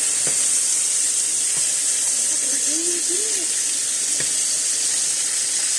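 Steaks frying in a pan with butter: a steady high sizzle, with a few faint ticks.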